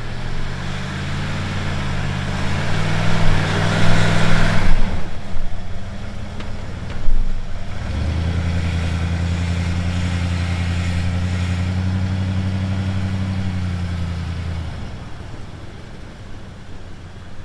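Ford F-150 pickup's engine pulling the truck up a snowy trail, its pitch rising and falling for the first few seconds with a loud rush of noise around four seconds in. A sharp knock comes about seven seconds in, then the engine holds a steady drone and fades away about fifteen seconds in.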